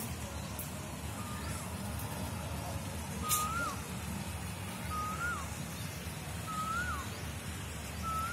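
A bird repeating a short whistled call about every one and a half seconds, each a held note that slides up and then drops sharply, over a steady low rumble. A single click about three seconds in.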